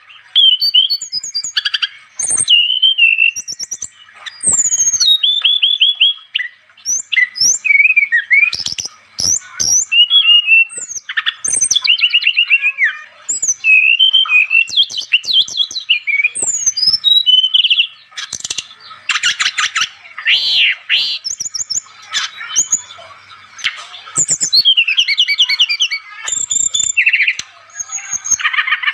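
Songbirds singing vigorously, with rapid, varied chirps, trills and whistling notes sliding up and down in pitch, coming in loud phrases separated by brief pauses. This is lively song of the kind played to lure wild birds in for trapping.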